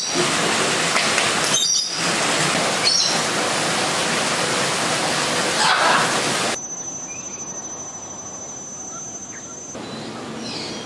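Short bird chirps over a loud, steady rushing noise. About two-thirds of the way through the noise drops away to a quieter background with a steady high-pitched whine.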